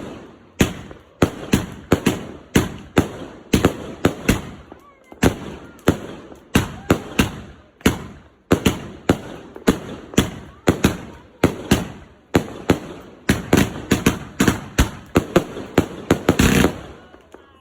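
Fireworks going off in a long, quick string of sharp bangs, about two to three a second, each echoing briefly.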